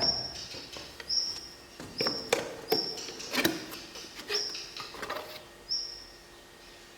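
Sharp clicks and knocks of metal brake parts being handled, with a short high bird chirp repeating about once a second.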